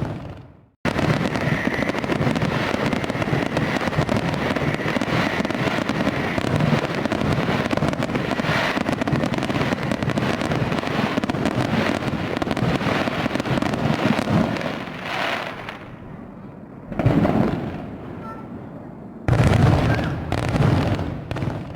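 Fireworks going off: a dense, continuous run of bangs and crackles that thins out about three-quarters of the way through. Two sudden loud bursts follow, each fading away.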